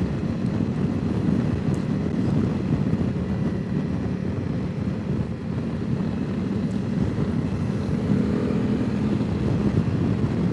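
Honda CRF300 Rally's single-cylinder engine running at a steady cruise, mixed with heavy wind noise on the microphone.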